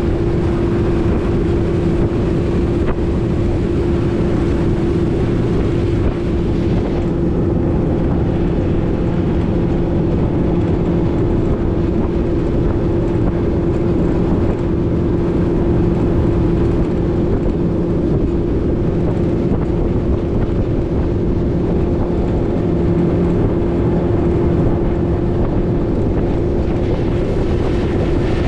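Boat's outboard motor running at a steady cruising speed, holding one even pitch throughout.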